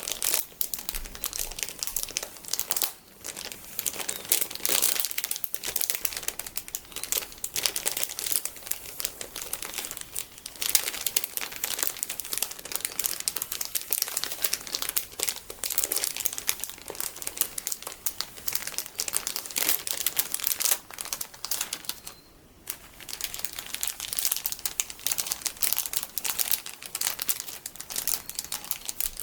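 Plastic packaging full of large sticky beads being squeezed and handled, giving continuous dense crinkling with short breaks about 3 and 22 seconds in.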